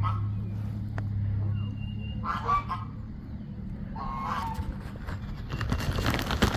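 Geese honking: two short calls a couple of seconds apart, over a low steady hum that stops about halfway through. Rustling noise builds near the end.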